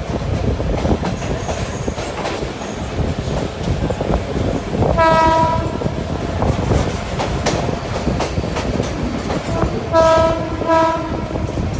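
Train running along the rails with a steady rumble and wheel clatter; its horn sounds once about five seconds in, then twice in quick succession near the end.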